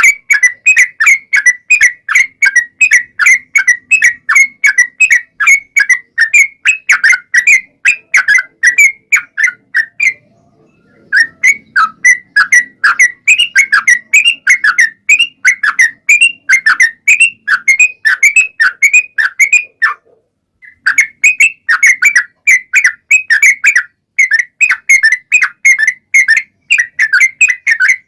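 Yellow-vented bulbul (trucukan) singing a long, rapid run of loud chattering notes, about four a second, breaking off briefly twice. It is a lure song played to make other trucukan answer.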